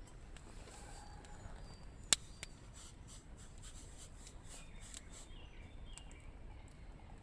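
Quiet outdoor ambience: a low steady rumble with a few faint, short bird chirps and scattered light ticks. One sharp click stands out about two seconds in.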